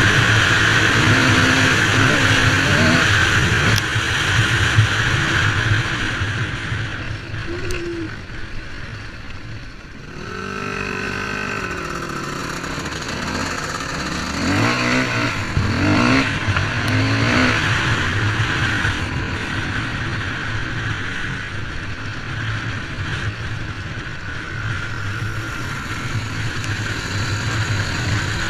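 Two-stroke Honda CR125 motocross engine running during its break-in, the note dropping away about ten seconds in, then rising and falling in pitch for several seconds as it is revved before settling back to steady running.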